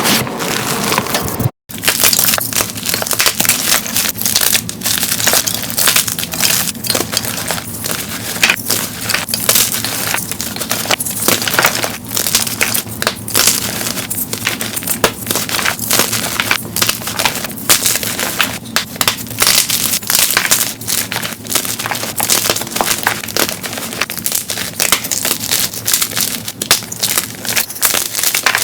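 Blocks of dyed gym chalk being crushed: a dense run of crisp crunching and crackling, played at double speed. There is a brief cut to silence about a second and a half in.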